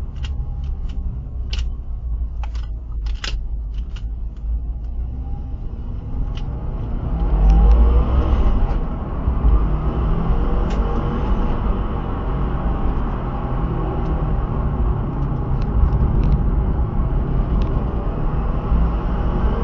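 Turbocharged car engine running under a heavy low rumble, with shifting engine pitch and a rise in loudness about seven seconds in. A scatter of sharp clicks comes in the first few seconds.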